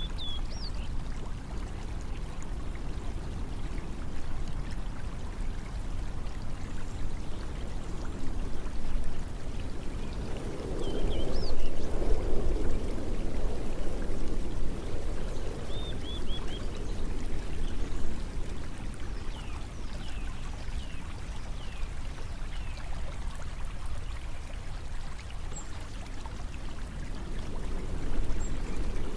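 Steady rushing of flowing water, swelling louder about a third of the way in and again near the end, with a few short high chirps scattered through it.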